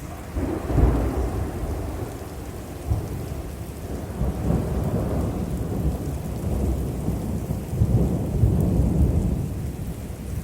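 Thunder rumbling in long rolling peals over steady rain, with a sharp surge about a second in and a long swell that peaks around eight to nine seconds.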